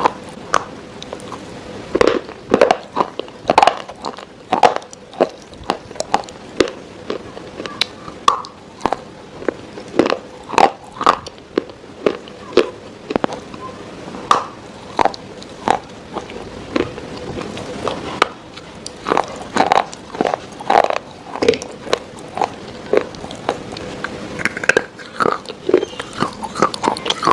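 Close-miked eating: a steady run of sharp, crunchy bites and chewing, about one to two crunches a second.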